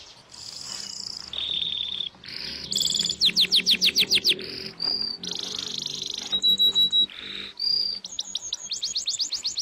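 Bird singing a varied song: runs of rapid chirps, about eight a second, alternating with buzzy notes and short high whistles.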